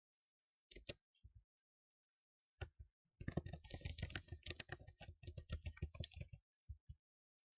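Typing on a computer keyboard: a few separate keystrokes, then a quick run of rapid typing for about three seconds, ending with two single taps.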